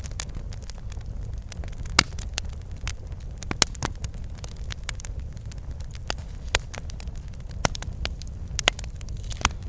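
Wood fire crackling in a fireplace: irregular sharp pops and snaps over a steady low rumble of the flames, with the loudest pops about two seconds in and shortly after three and a half seconds.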